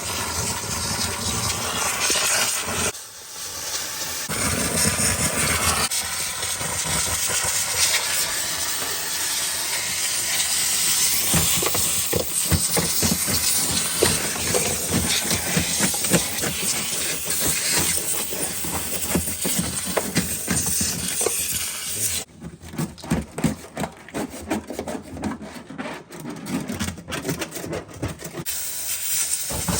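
Steamer blowing a steady hiss of steam onto freezer frost buildup to melt it, with sputtering crackles mixed in. Near the end the hiss stops for several seconds, leaving irregular crackling, then starts again.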